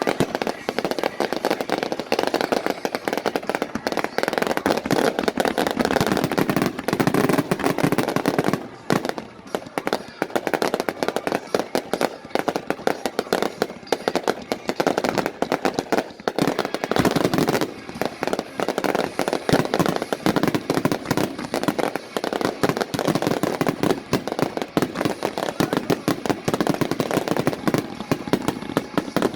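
Fireworks going off in a dense, continuous barrage of rapid bangs and crackles. There is a brief lull about nine seconds in, then it picks up again.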